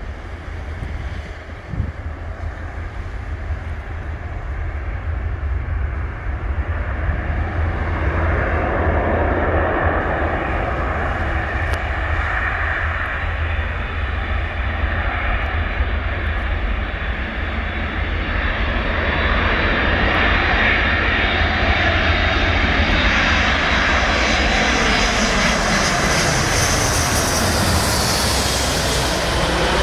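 Boeing C-17 Globemaster III coming in to land, the jet noise of its four turbofan engines growing steadily louder as it approaches. The hiss and whine brighten over the last several seconds, with a sweeping change in pitch as it passes closest.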